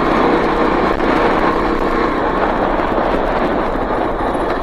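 2023 Kawasaki KLX-300 dual-sport motorcycle's single-cylinder four-stroke engine running steadily as the bike rides along, with ride noise.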